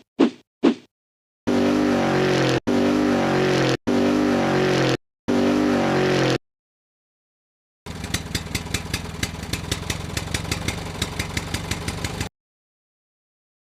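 Vehicle engine sound effects: four separate engine bursts of about a second each with sudden cut-offs, then, after a pause, a longer rattling engine run with a fast even pulse for about four seconds that cuts off abruptly.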